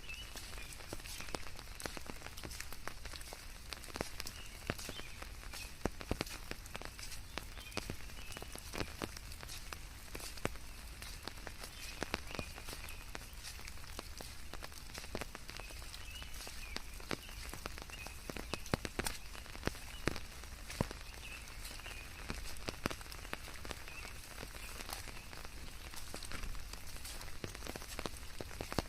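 Steady rain, with many separate drops striking close by over an even hiss, and a faint high wavering trill underneath.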